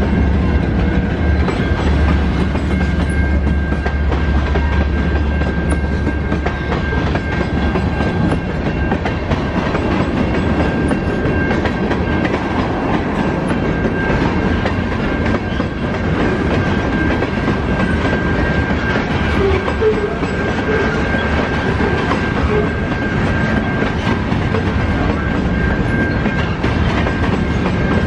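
A train passing close by, loud and steady. A deep engine hum fades out after about eight seconds, and a thin high tone holds throughout.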